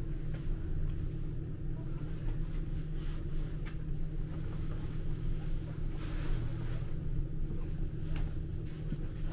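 Steady low rumble of a passenger train running along the track, heard from inside the carriage, with a few faint clicks.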